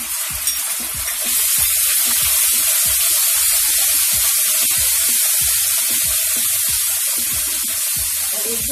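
Ginger-garlic paste and cumin seeds sizzling loudly in hot oil in a kadhai while being stirred with a wooden spatula; the sizzle swells about a second in and then holds steady as the paste sautés.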